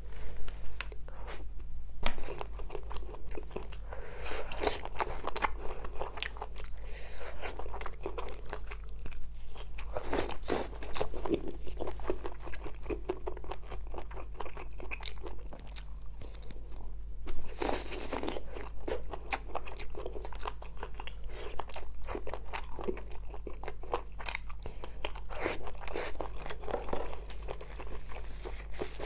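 Close-up eating sounds: a person biting and chewing food pulled off wooden skewers, with a steady run of irregular crunches and wet chewing, louder bites about a third of the way in and again a little past halfway. A steady low hum runs underneath.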